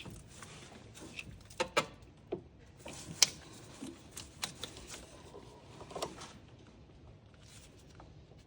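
Scattered clicks, taps and rustling of hands and tools working hoses and connectors loose in a car's engine bay, with one sharp click about three seconds in.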